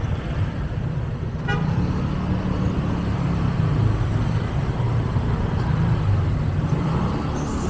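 Motorcycle riding in city traffic: a steady low engine and road rumble, with a short horn beep about one and a half seconds in.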